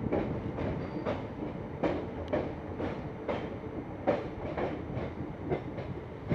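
Express passenger train rolling past, its wheels clacking over the rail joints, often in quick pairs, about once or twice a second, over a steady rumble.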